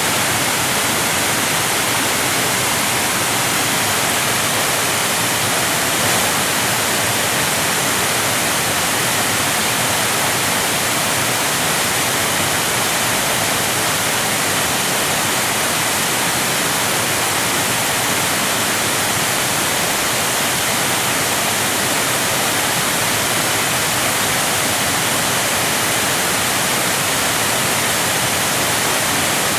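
Waterfall or fast river: a steady, even rush of falling water, with no change.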